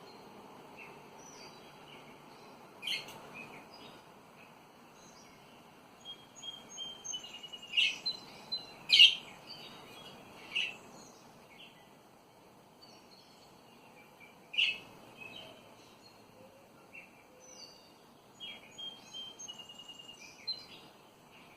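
A pair of budgerigars chirping: scattered short chirps and little warbling twitters, the loudest bunched near the middle, over a steady low hiss of background noise.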